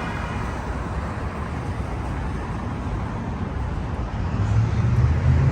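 Steady city traffic noise, with a vehicle engine's low hum coming up about four seconds in and growing louder.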